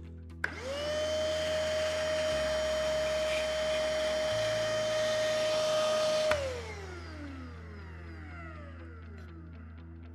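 Sun Joe 24V-WDV6000 cordless wet/dry vacuum switched on with a click, its motor spinning up quickly to a steady whine with rushing air, then switched off after about six seconds and winding down with a falling whine.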